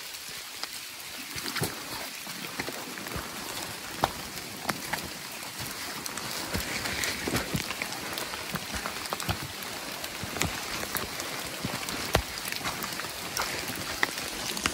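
Rain falling on rainforest foliage: a steady hiss dotted with scattered sharp drip taps.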